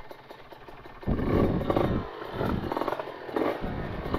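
Kawasaki Ninja 150 RR single-cylinder two-stroke motorcycle engine pulling away, quieter at first, then from about a second in rising in a run of uneven throttle surges.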